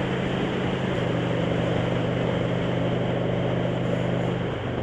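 Motorcycle engine running steadily at cruising speed, with wind rushing over the helmet-mounted microphone. The engine note drops near the end.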